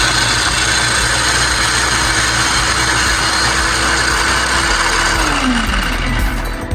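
Small food processor motor running, its blades chopping celery, onion and green onion, then winding down about five seconds in as its hum drops in pitch.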